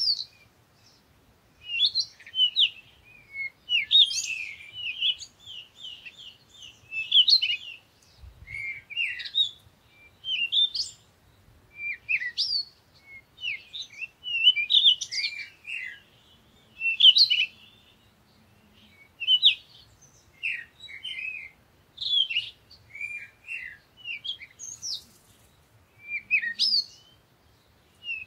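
A bird chirping: clusters of short, quick chirps that sweep in pitch, repeating every second or two.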